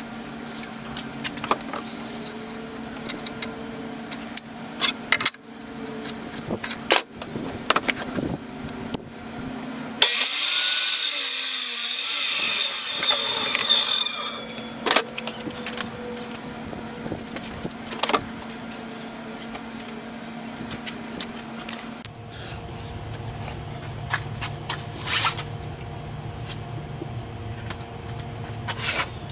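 Workshop handling: scattered knocks and clicks, with a power tool running loudly for about four seconds near the middle. A steady low hum runs under the first two-thirds.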